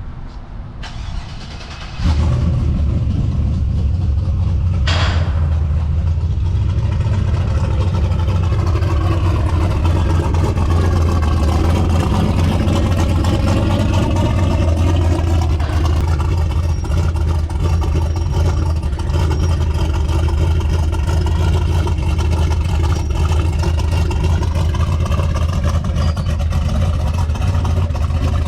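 A 1,000-horsepower race truck's engine starting up. It catches with a sudden jump in loudness about two seconds in, then idles loud and steady with a low note.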